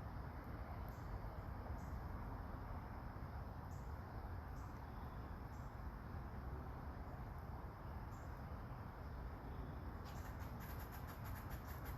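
Soft autumn rain, a steady hiss, with scattered short high insect chirps. About ten seconds in, a rapid, evenly pulsing high trill of crickets starts up.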